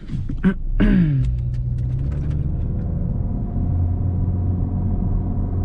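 2025 Honda Civic's engine and road noise heard from inside the car while driving; the engine note drops about a second in, then holds a steady drone.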